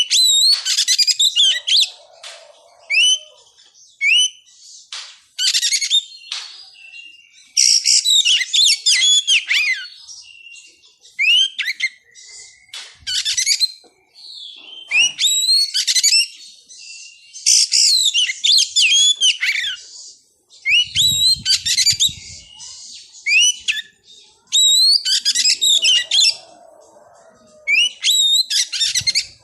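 Oriental magpie-robin (kacer) singing: loud, varied phrases of sweeping whistles and rapid chattering notes, one phrase every couple of seconds.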